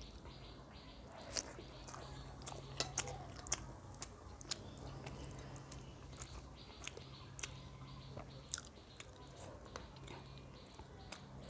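Close-miked mouth sounds of someone eating rice with chicken curry: chewing and biting with irregular crisp clicks and crunches, several sharper ones in the first few seconds. A steady low hum runs underneath.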